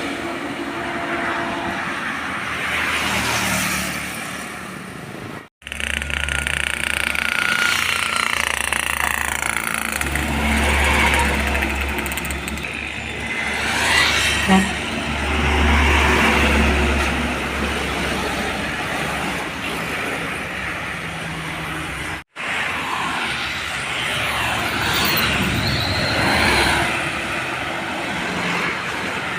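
Road traffic with trucks driving past, engines running and the pitch sliding as they go by. The sound cuts off abruptly twice, about a third and three quarters of the way through.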